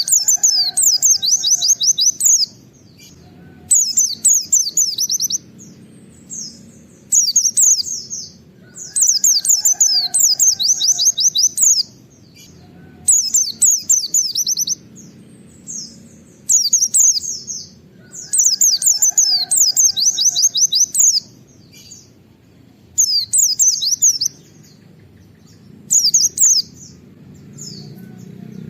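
White-eye (pleci) singing its rapid 'wit wit' nembak song: repeated bursts of fast, high twittering notes, each a second or two long, with short pauses between.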